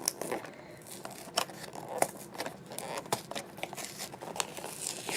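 Blind box packaging being opened by hand: a run of irregular clicks, scratches and crinkles as it is picked at and torn open.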